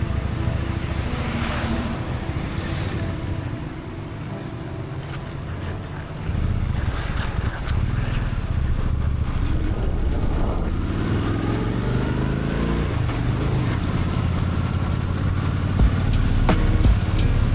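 A 1999-2000 Honda Shadow VT1100 V-twin engine running while the bike is ridden, with a rush of wind noise. It eases off about four seconds in, pulls harder again about six seconds in, and rises in pitch as it accelerates a few seconds later. There are a few sharp knocks near the end.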